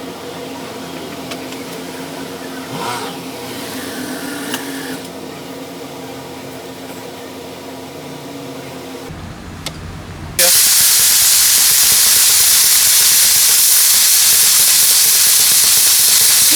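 A loud, steady hiss of a pressurised jet from a nozzle, typical of blowing out or spraying carburetor parts during cleaning. It starts abruptly about ten seconds in and cuts off sharply at the end. Before it there is a steady low hum with a faint pitched drone.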